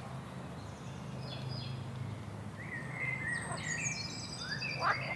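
A songbird chirping and whistling in short phrases of quick sweeping notes, livelier in the second half, over a steady low hum.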